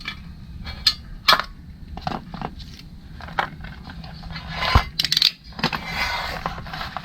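Scattered sharp clicks, snaps and light metallic clinks of hand tools and parts being handled, with plastic zip ties being snipped; the loudest snaps come about a second in and near five seconds.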